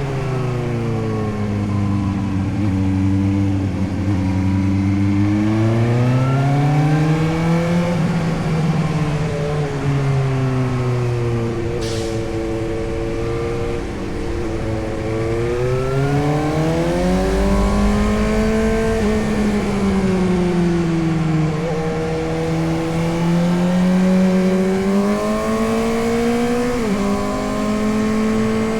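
Suzuki GSX-S750's inline-four engine under way, its pitch climbing and falling several times as the rider opens and closes the throttle. There is a brief sharp click near the middle.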